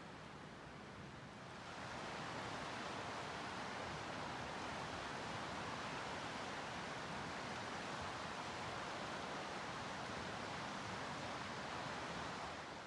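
Steady outdoor rushing noise, stepping up in level about a second and a half in, then holding even.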